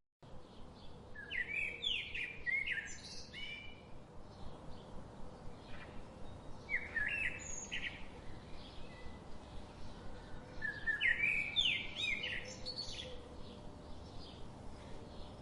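Songbirds singing outdoors: several bursts of quick, chirping song phrases a few seconds apart over a steady background hiss.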